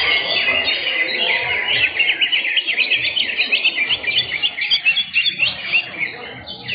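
Several caged greater green leafbirds (cucak hijau) singing at once: a dense, continuous stream of rapid, varied chirps and whistles, busiest in the middle.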